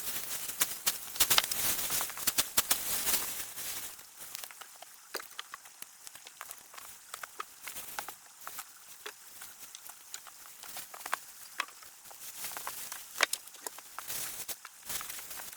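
Campfire crackling with scattered sharp pops, busiest and loudest in the first four seconds and sparser after.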